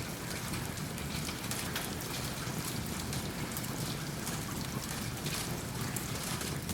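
Steady rain falling, mixed with the scattered snaps and crackles of a wood fire burning in a fireplace.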